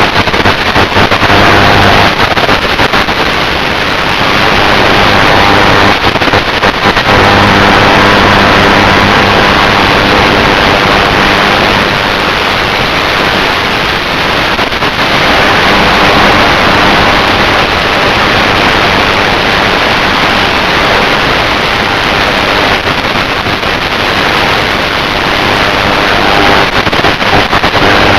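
Loud wind rush on an FPV aircraft's onboard camera microphone, with the steady hum of its electric motor underneath, while it flies home under autopilot return-to-home into a crosswind.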